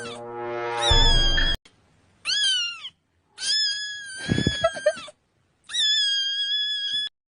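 A cat meowing: four separate meows with short silent gaps between them. The second is a short mew that rises then falls, and the others are long, drawn-out high calls.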